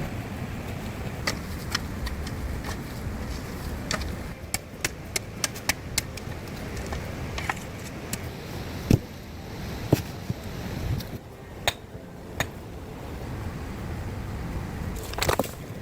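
A series of sharp knocks and clicks at irregular intervals, a dozen or so, over a steady low rumble of wind noise.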